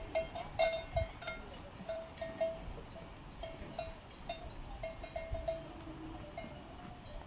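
Metal bells on livestock clanking in uneven strokes as the animals move, the same ringing tone struck over and over.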